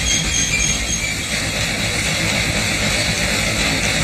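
Steam engine running steadily, a continuous hiss over a low rumble.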